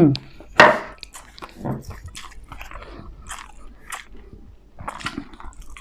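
Close-miked chewing and crunching of crispy fried dumplings, with a loud crunchy bite about half a second in and then irregular wet chewing smacks.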